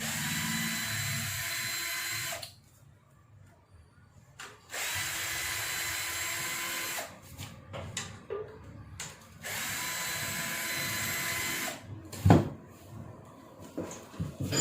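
Cordless drill-driver running in three bursts of about two seconds each with a steady motor whine, backing out the oil-pan bolts on a truck engine. Light clatter between the bursts and one sharp knock near the end.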